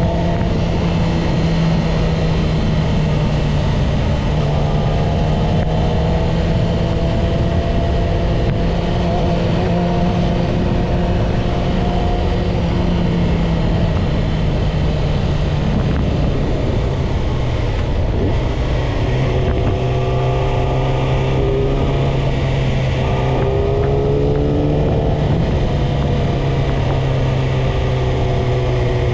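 Yamaha YZF-R6 inline-four engine running under way at a fairly steady speed, over a constant rush of wind and road noise. The engine note drops slightly about halfway through, then rises and falls gently in the last third.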